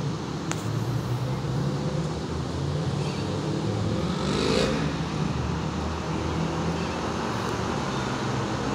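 Steady hum of road traffic, with a faint short call about halfway through.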